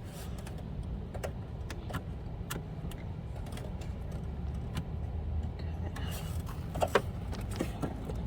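Scattered small clicks and taps of hands and tools working a hose clamp loose on an air-filter housing, with a louder pair of clicks near the end. A steady low rumble sits underneath.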